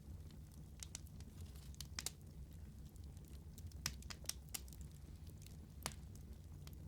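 Wood fire burning with a low steady rumble and scattered sharp pops and crackles, the loudest pops about four and six seconds in.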